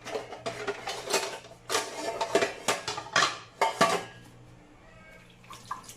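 Kitchenware clattering: a quick run of sharp clinks and knocks of hard dishes and utensils, stopping about four seconds in.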